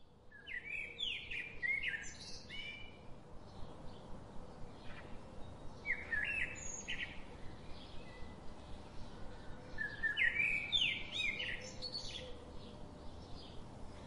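A songbird singing short, quick, warbling phrases three times, a few seconds apart, over a steady background hiss.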